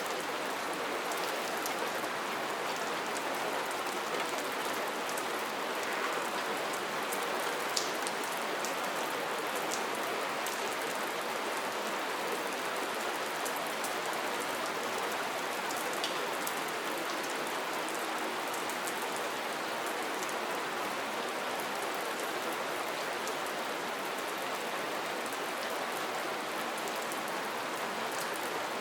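Steady rain falling, with an even hiss and many small drop ticks on hard surfaces; a few drops land a little louder, one about eight seconds in.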